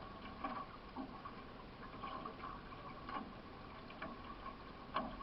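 Solo racing canoe under way, paddle strokes sounding as short sharp hits about once a second, with water noise between them.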